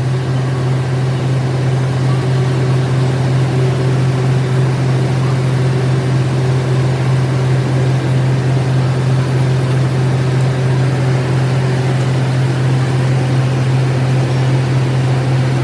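Metal lathe running steadily: a strong, constant low hum with an even whirring noise over it.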